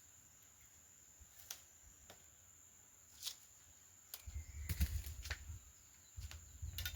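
Scattered light clicks and rustles, with low rumbling bumps from about four seconds in, over a steady high-pitched whine.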